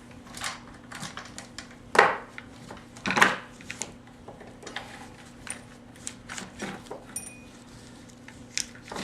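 Chainsaw chain being worked off the guide bar by hand: irregular metallic clinks and rattles of the chain links, with two louder knocks about two and three seconds in.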